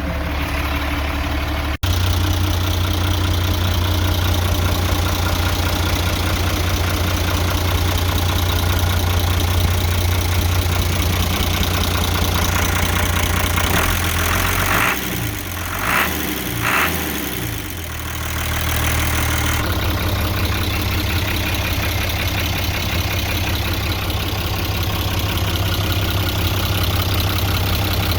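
Hino H07C inline-six diesel engine of a 1997 Hino Ranger idling steadily just after starting. Between about 14 and 18 seconds in, the engine note wavers and two short sharp sounds are heard, then the steady idle returns.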